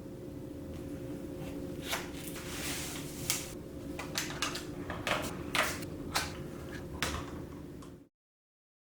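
Electronic scale being unboxed: packaging rustling and a series of sharp clicks and knocks as the box and scale are handled, over a steady low hum. The sound cuts off abruptly near the end.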